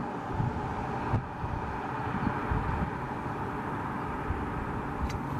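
Steady noise of vehicle engines running, with no distinct events.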